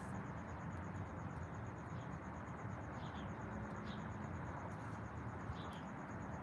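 High-pitched, rapid and even pulsing trill of an insect such as a cricket, with a few faint short bird chirps over steady low background noise.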